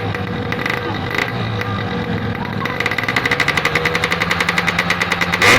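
Yamaha RX-King two-stroke single-cylinder motorcycle engine running through its exhaust. About halfway it breaks into a fast, even run of pulses, and there is one loud, sharp pop near the end.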